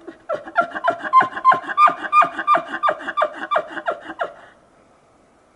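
Snow goose calls: a rapid series of short, high honking notes, about three a second, that stops about four and a half seconds in.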